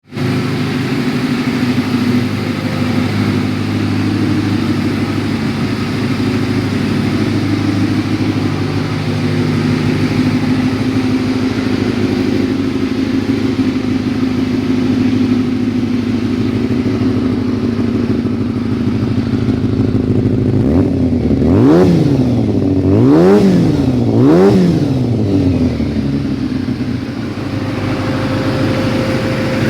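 Kawasaki ZZR400's inline-four engine idling steadily, then revved three times in quick succession about three quarters of the way through, each rev climbing and dropping sharply before it settles back to idle.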